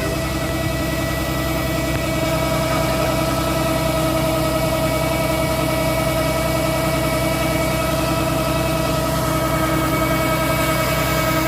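Kubota DC70 combine harvester running steadily, its engine note holding an even pitch with a steady whine over it.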